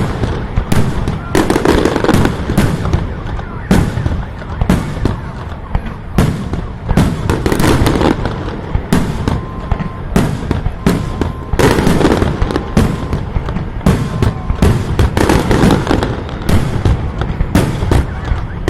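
Fireworks display going off: a dense, continuous string of loud bangs and crackles, several a second.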